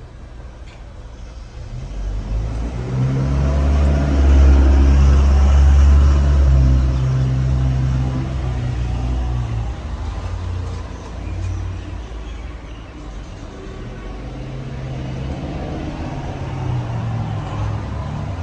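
A motor vehicle driving past: a low engine rumble swells about two seconds in, is loudest around the fourth to seventh second and fades by about ten seconds, then a second, weaker pass rises near the end.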